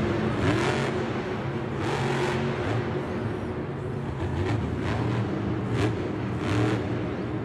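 Vehicle engine running steadily, with several short surges of noise laid over it.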